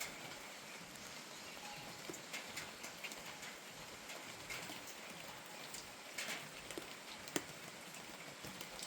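Steady rain falling, with irregular drops tapping on nearby surfaces; one sharper drip knock about seven seconds in.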